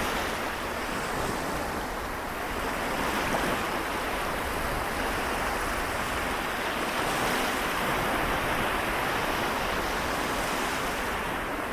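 Small waves washing steadily on a shore of the Seto Inland Sea, a continuous wash that swells and eases gently every few seconds.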